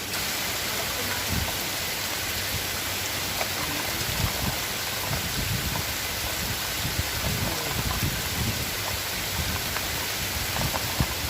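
Rain falling steadily, drops pattering on a hard surface close by. The close drops thicken from about four seconds in.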